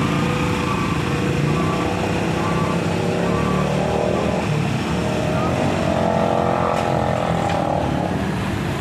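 Motorcycle engines running steadily in road traffic, with people's voices in the background.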